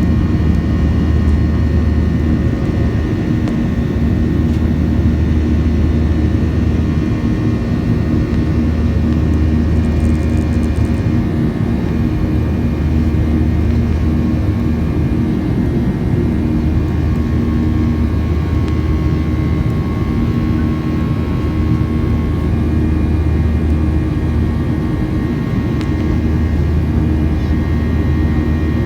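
Airliner jet engines and airflow heard from inside the passenger cabin after takeoff: a steady loud roar with a low drone that swells and fades every few seconds, and a faint steady whine above it.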